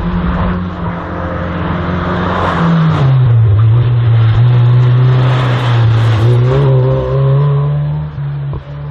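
Competition car engine working hard through a slalom course, its pitch dropping about three seconds in and then holding, louder in the middle as the car comes closest.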